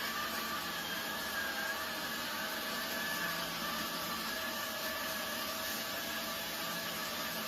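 Robot vacuum cleaner running with a steady whir and a few constant tones over it.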